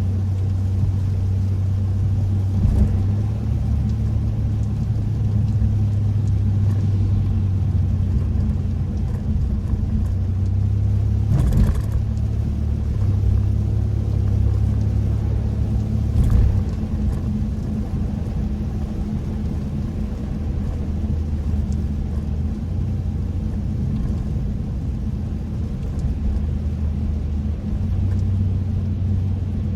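Kia K5 (DL3) being driven on a wet road, a steady low rumble of road and tyre noise. A few brief knocks come through, the loudest about eleven and a half seconds in and another around sixteen seconds.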